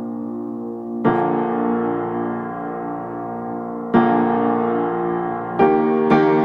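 Background piano music: sustained chords, with new chords struck about a second in, about four seconds in, and again more quickly near the end.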